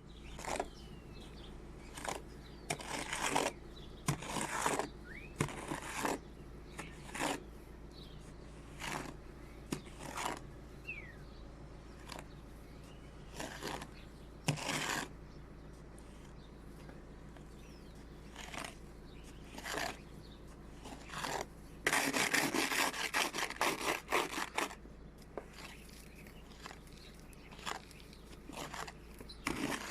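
Snow and ice being brushed and scraped off a car in separate strokes every second or two, then a quicker run of scraping about two-thirds of the way through.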